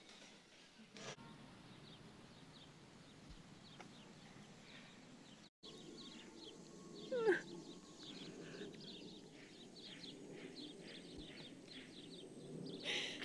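Faint room tone, then from about five and a half seconds in, quiet outdoor ambience with many short, high bird chirps and a single loud rising call about seven seconds in.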